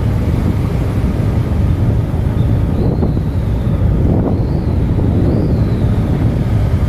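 Strong wind buffeting the microphone aboard a ship in rough sea, a steady low rush and rumble with a faint wavering whistle above it.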